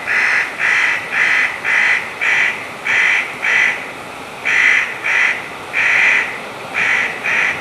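Eurasian jay giving a rapid series of a dozen or so harsh, rasping calls, about two a second with a short pause midway.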